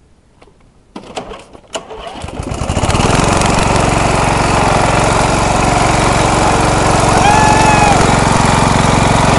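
A few clicks, then an MTD riding lawn mower's engine starts about two seconds in and settles into a loud, steady run. A short high whistled note sounds briefly over it near the end.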